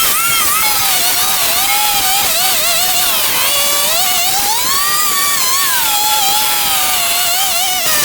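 A small-engine power tool running continuously under a loud hiss, its whine rising and falling in pitch as the load and throttle change.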